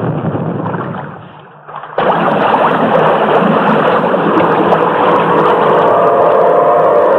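A loud rushing noise fades away over the first two seconds, then a sudden cut brings in a motorboat engine running steadily.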